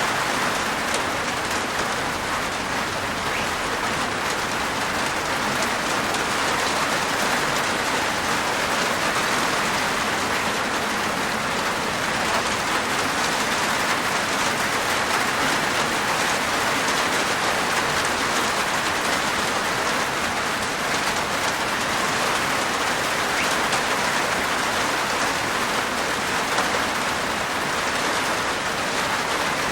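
Steady rain falling on a roof, an even hiss of many raindrops.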